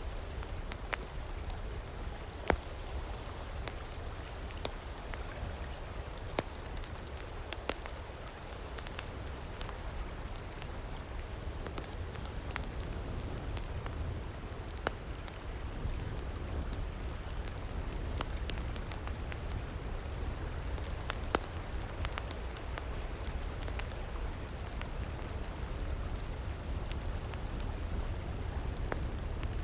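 Campfire crackling, with scattered sharp pops of burning wood (a loud one about two seconds in), over the steady rush of a river.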